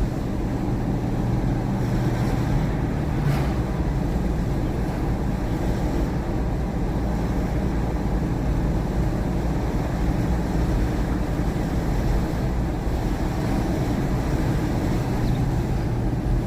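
Steady engine and road noise from inside a moving car towing a caravan: a constant low drone with tyre and wind hiss.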